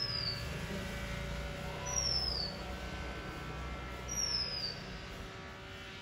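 A bird repeating a thin, high whistle that falls in pitch, three times about two seconds apart, over a low steady background rumble.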